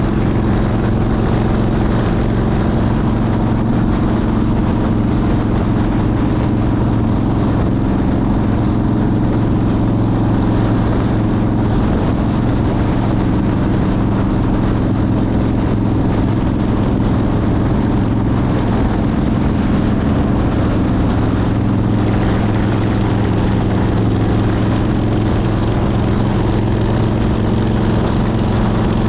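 Motorcycle engine running at a steady cruising speed, a constant drone under a rush of wind noise.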